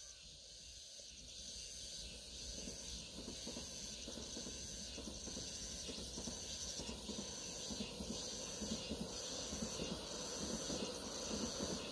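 Distant ITX-Saemaeul electric multiple-unit train running along the line, a low rumble slowly growing louder. Insects buzz in even, high pulses a little more than once a second.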